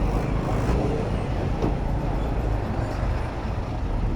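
Road and traffic noise heard from a moving bicycle, with a heavy, uneven low rumble of wind on the microphone.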